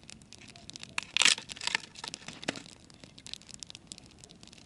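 Campfire crackling: scattered sharp pops and snaps from burning wood, with a louder crackling burst about a second in.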